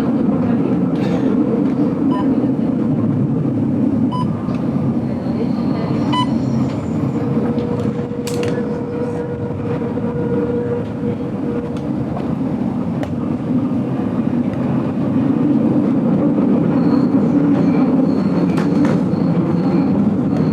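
Ride noise inside a moving train carriage: a steady rumble of wheels on the rails with scattered clicks and rattles, and a faint held tone for a few seconds mid-way.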